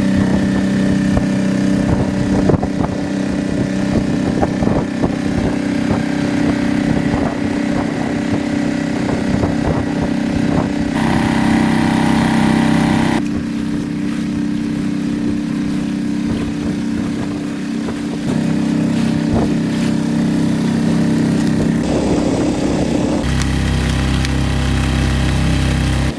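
A small boat motor running steadily, its tone changing abruptly a few times.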